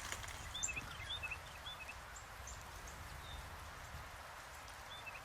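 Small birds chirping, short high calls in quick pairs repeated several times, over a steady outdoor hiss.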